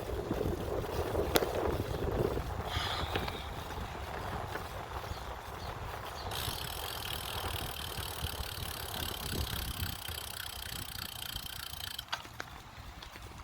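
Riding a bicycle: steady rumble of rolling and wind on the microphone, with a sharp click just over a second in and a steady high hiss that starts about halfway through and cuts off suddenly near the end.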